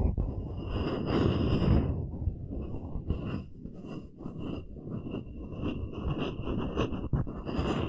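Wooden coaster being scratched close to the microphone: a run of rasping strokes, longer at first and again near the end, shorter and quicker in the middle.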